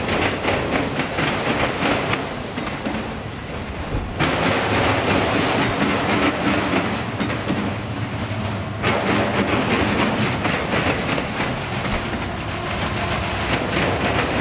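Freight train cars rolling past on the rails, a steady rumble with wheels clacking over the rail joints. The sound changes abruptly about four seconds in and again about nine seconds in.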